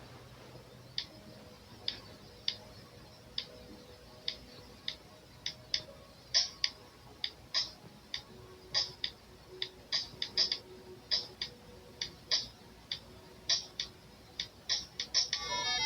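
A series of light, sharp clicks at irregular intervals, growing more frequent after the first few seconds, over a faint steady background.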